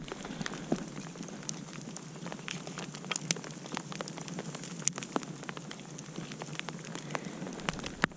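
Campfire burning, a steady hiss with irregular sharp crackles and pops, several a second.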